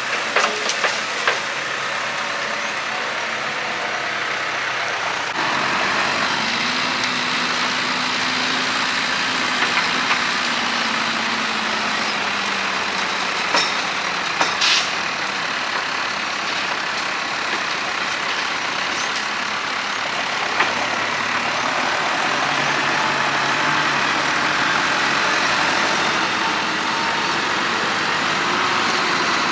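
Heavy diesel vehicle engine running steadily, a little louder from about five seconds in, its pitch drifting slowly, with a few short clicks.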